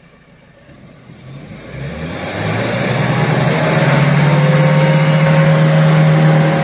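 Motor vehicle engine revving up from about a second and a half in, then held at high revs, as the vehicle struggles to get through slippery rain-soaked mud.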